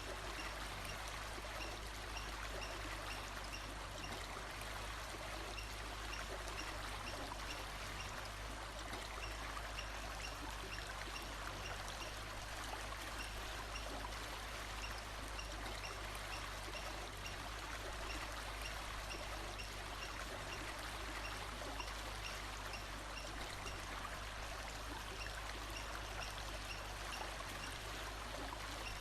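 Steady flow of a stream, an even rushing of water, with a faint high chirp repeating at an even pace.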